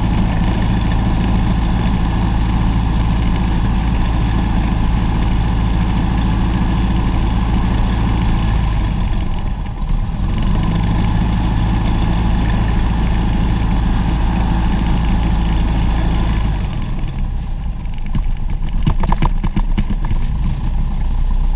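Propeller aircraft engine running steadily, heard from inside the cabin. Its note shifts about halfway through and again near the end, where a few clicks come through.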